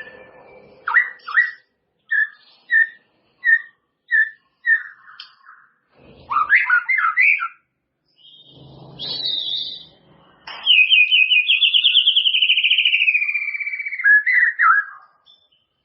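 White-rumped shama (murai batu) singing: a run of short, clear whistled notes at an even pace, a quick tumbling phrase, then a long rapid trill that slowly slides down in pitch and ends in a few brief notes.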